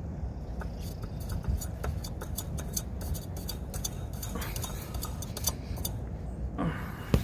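Light, irregular metallic clicking and ticking as a new oil filter is turned onto its mount by hand, over a steady low rumble of wind.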